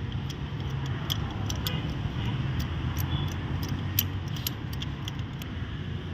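Irregular metallic clicks and clinks of hand tools working on a spark plug in a Mercedes-Benz GL450 V8's cylinder head while the plug is being taken out, over a steady low background rumble.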